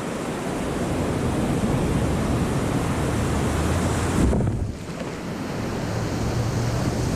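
Ocean surf breaking and rushing around a kayak, with wind buffeting the microphone. About four seconds in there is a heavy jolt and the hiss briefly goes dull before the rush of water returns.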